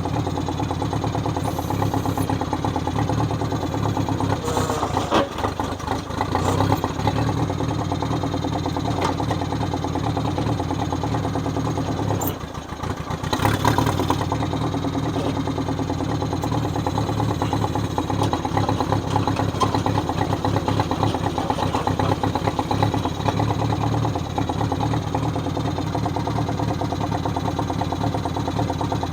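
Gasoline engine of a John Deere 1010 tractor running steadily, with a few brief knocks and a short dip and rise in level about twelve to fourteen seconds in.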